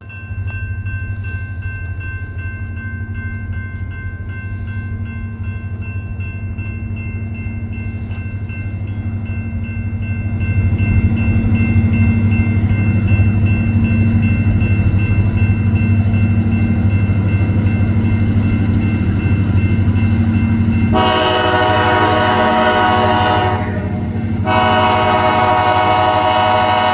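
Diesel freight locomotives approaching, their engines a steady low drone that grows louder about ten seconds in. The locomotive's multi-tone air horn then sounds two long blasts, the second still going at the end.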